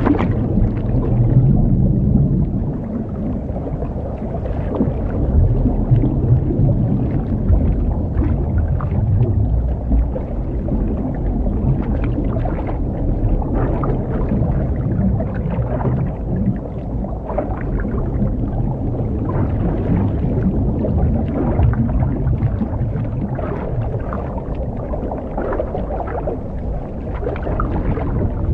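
Underwater sound of a scuba diver: a continuous low rumble of regulator breathing and exhaled bubbles, swelling and easing every few seconds.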